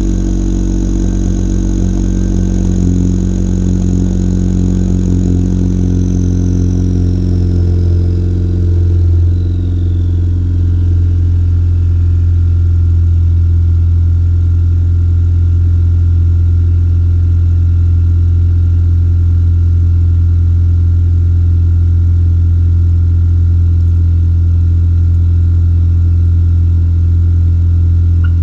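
First-generation Acura RDX's turbocharged 2.3-litre four-cylinder idling on a cold start through a straight-piped exhaust with a glasspack, a steady low drone. A high whine glides down and fades out between about six and twelve seconds in, and the idle drops slightly about nine seconds in.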